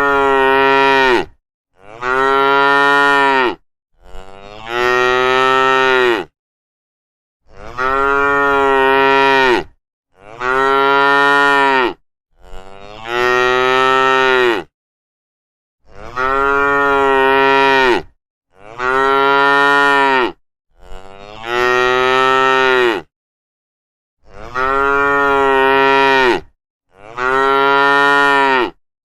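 Cattle mooing: a run of about a dozen long moos, each about two seconds and steady in pitch, one after another with short silent breaks between them.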